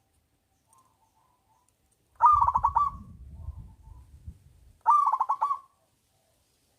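Zebra dove (perkutut) singing: two loud, rapidly pulsed cooing phrases about two and a half seconds apart, with fainter cooing from another dove before and between them. A low rumble runs under the first phrase.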